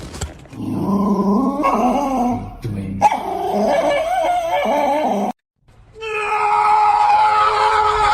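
A dog howling and whining in long, wavering cries for about four seconds, then, after a sudden break, one long, steadier howl.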